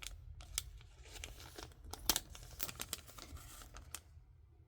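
Product packaging crinkling and crackling as it is handled and cut out with scissors: scattered sharp clicks and crackles, the sharpest about two seconds in, dying away near the end.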